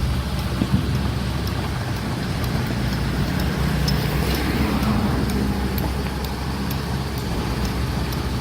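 Heavy construction machinery's diesel engine running steadily, a low rumble with faint scattered ticks over it.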